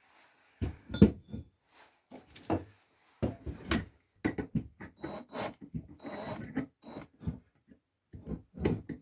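Irregular knocks and clatter of wooden and metal workpieces being handled and fitted together on a workbench, the loudest knock about a second in.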